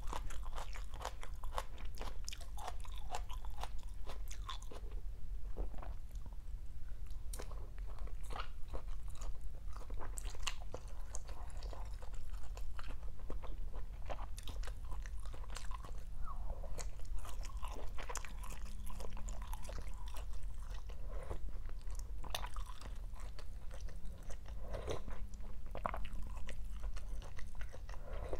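Close chewing and crunching of a mouthful of rice noodles, salmon fish cake and raw greens such as bean sprouts and shredded water spinach, with irregular small bites and wet mouth clicks.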